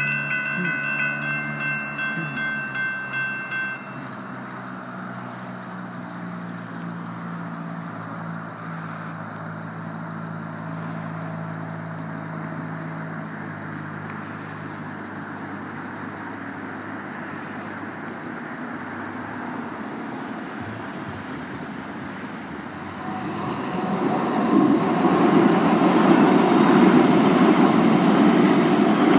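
Railroad crossing warning bells ringing in a pulsing rhythm, stopping about four seconds in. A MAX light rail train and traffic rumble on underneath. Near the end a louder passing rumble builds.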